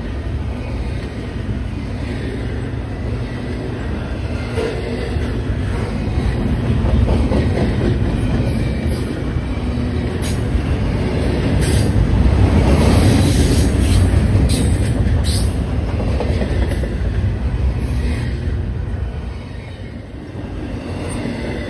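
Double-stack intermodal container train's well cars rolling past: a steady rumble of steel wheels on rail that swells in the middle and eases near the end.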